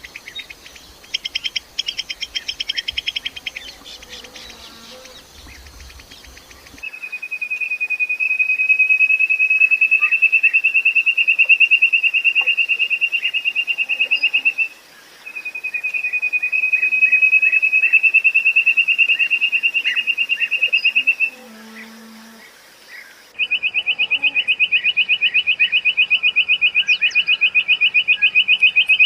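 Quail calling: a short stretch of quick chirps, then two long, rapid, even trills of about seven seconds each, then a louder, coarser trill from about two-thirds of the way in that breaks off briefly near the end.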